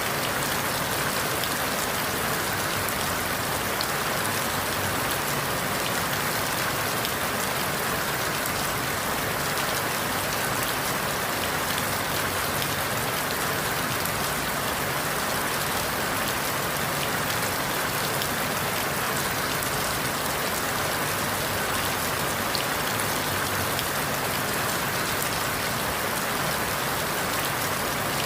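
Steady rain pattering on forest leaves, a dense even hiss of drops that keeps the same level throughout.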